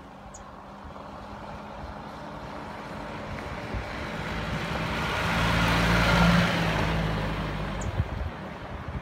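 Mahindra Roxor's four-cylinder diesel engine running as the vehicle drives closer and then away, loudest about six seconds in.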